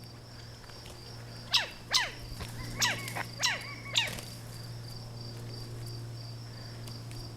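Fighting birds give a quick run of five sharp, downward-sweeping calls in the first half. A steady pulsing insect chirr continues underneath.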